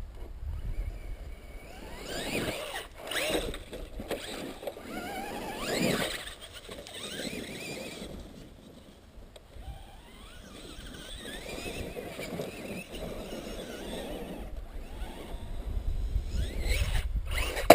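Electric motors of radio-controlled monster trucks whining, several times rising and falling in pitch as they speed up and slow down, with a low rumble that swells near the end.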